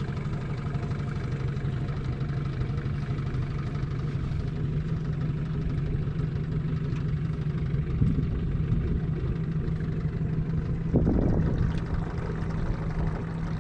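Boat's outboard motor running steadily at low speed, a constant low hum, with two brief louder surges about eight and eleven seconds in.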